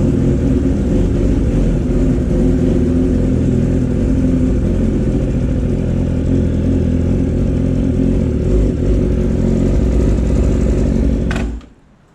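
Motorcycle engine idling steadily, then switched off about a second before the end, cutting out abruptly.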